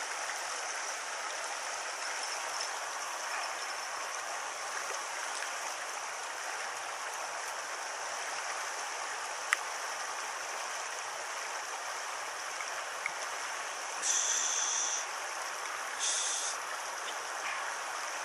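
A small stony stream flowing steadily, its water rushing over rocks. There is a single sharp click about halfway through and two short bursts of brighter hiss near the end.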